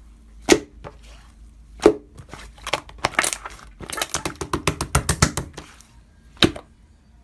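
Slime being worked by hand: a run of quick crackling clicks and pops, with a few single sharper pops on either side.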